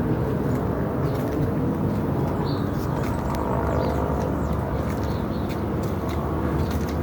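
Steady low rumbling background noise, with faint short high chirps now and then.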